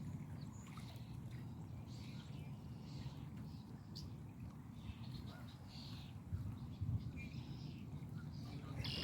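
Outdoor ambience: a low, steady rumble, likely wind on the microphone or lapping water, with a few faint, short bird chirps scattered through.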